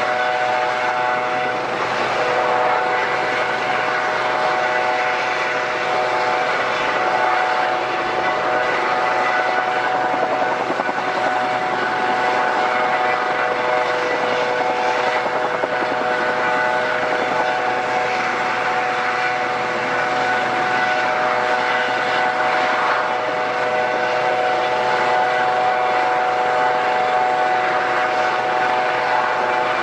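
Airliner engines running steadily, a whine of several held tones over a rushing hiss, with no pause or change.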